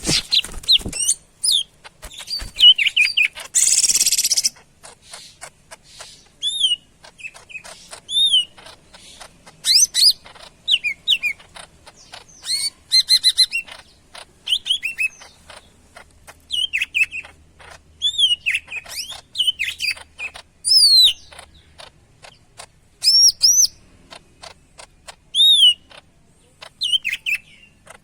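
Greater green leafbird (cucak ijo) singing hard: rapid bursts of looping whistled notes and sharp clicks, phrase after phrase with short gaps. There is a harsh hissing burst about four seconds in.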